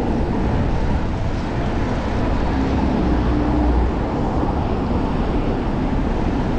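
Steady wind rush buffeting a chest-mounted action camera's microphone while cycling through city traffic, heaviest in the low end.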